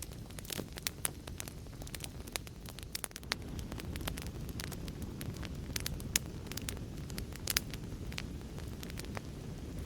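Fireplace fire crackling: irregular sharp pops and snaps over a steady low rumble of burning, the rumble growing slightly louder about a third of the way in.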